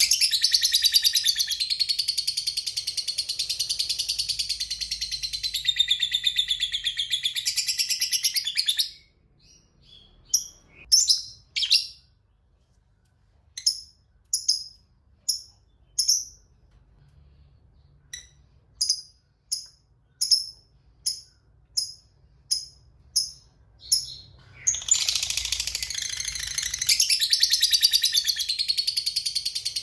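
Fighter lovebird giving its long 'ngekek' song, a rapid, high-pitched unbroken chatter, for about nine seconds. It breaks off into single sharp chirps, about two a second for a stretch, then goes back to the long chatter near the end.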